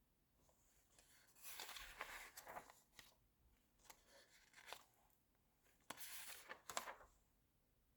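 Magazine pages being turned by hand: two soft paper rustles, one about a second and a half in and another about six seconds in, with quiet between.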